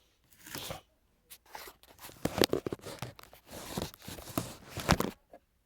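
A cloth vacuum bag being handled and fitted onto a Kirby G4 upright vacuum: irregular rustling and scraping with several sharp clicks, stopping just before the end.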